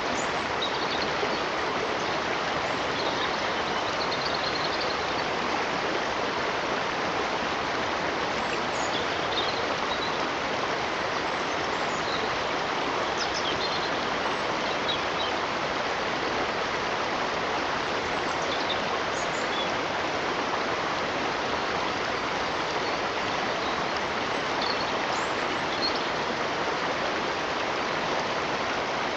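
Flowing stream water rushing steadily, with faint short high chirps here and there.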